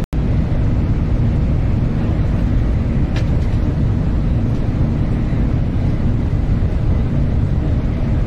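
Steady low rumble of a Shinkansen bullet train running at speed, heard from inside the passenger cabin. The sound cuts out for an instant at the very start.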